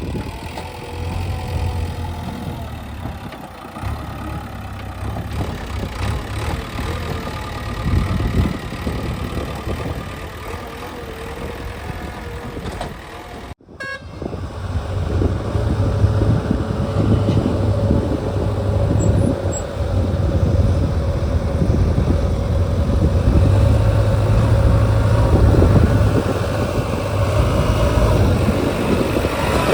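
Diesel engine of a JCB 3DX backhoe loader running steadily with a deep rumble as the machine works. The sound breaks off for a moment about halfway through and comes back louder.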